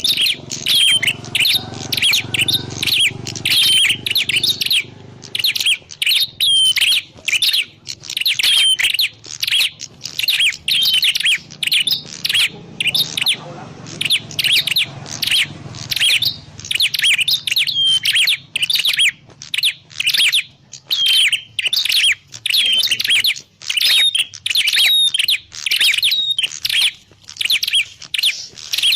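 Prenjak klawu (a grey prinia) calling without pause: a rapid, even string of sharp high chirps, about two a second. The birds' call is played as a lure to draw in wild prinias.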